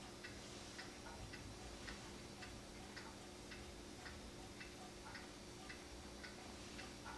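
Faint, steady ticking of a mechanical clock, a little under two ticks a second, with a low steady hum underneath.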